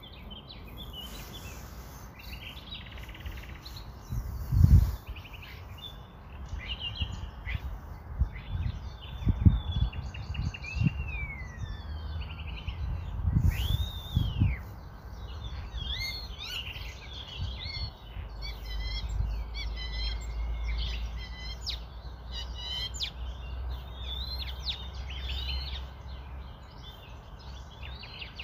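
Birds chirping and singing: many short calls and some sliding, arching notes, denser in the second half. A few low thumps stand out, the loudest about five and nine seconds in, and a low rumble runs under the birds from about halfway on.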